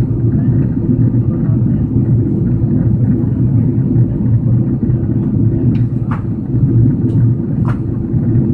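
Steady low rumble of airflow and the twin GE CF6-80E1 turbofans heard inside the cabin of an Airbus A330-302 on descent. A few faint clicks sound over it in the second half.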